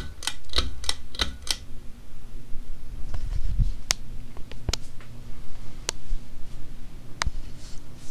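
Tatung CAM-52BB hugger ceiling fan running with a steady low motor hum. Sharp clicks sound over it: a quick run of about five in the first second and a half, then single clicks every second or so through the rest.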